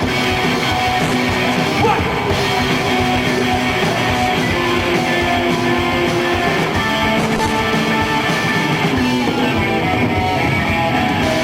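Rock band playing live at full volume, electric guitar to the fore, in a stretch without lyrics.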